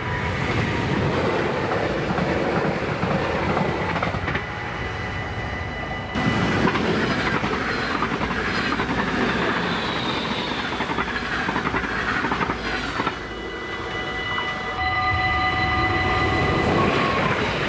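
Electric passenger trains passing over level crossings: rumbling, rushing rail noise with wheels clattering on the track, alongside steady ringing from the crossing's warning bells. The sound changes abruptly several times, and near the end another train draws closer.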